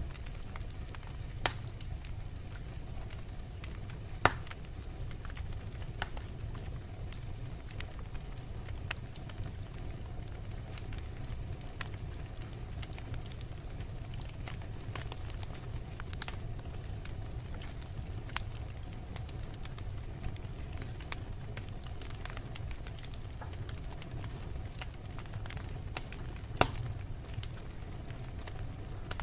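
Wood logs burning in a fireplace: a steady low rumble of flame with scattered crackles and pops, the sharpest about a second and a half in, about four seconds in, and near the end.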